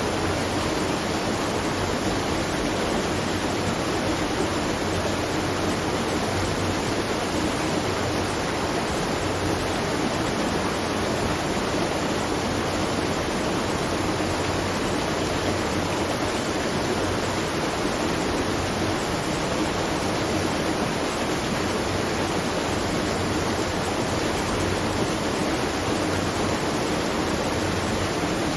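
Water at a watermill rushing and splashing in a steady, unbroken wash.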